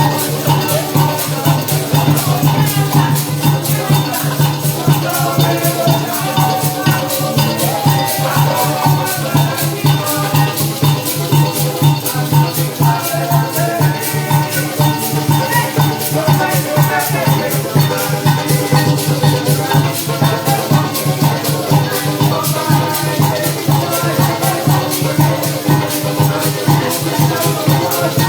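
Live parang band music, led by a steady, fast shaking of maracas over the band's sustained instrumental accompaniment.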